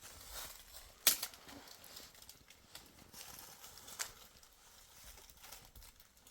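Scuffing and crunching, with two sharp knocks: one about a second in and one near four seconds.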